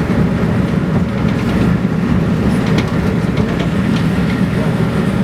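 Passenger train running along the track: a steady low rumble, with a few faint rail clicks in the middle.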